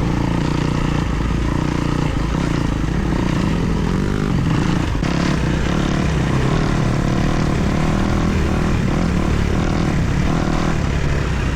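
Kawasaki KX250 motocross bike's four-stroke single-cylinder engine running steadily, its pitch wavering briefly about four to five seconds in.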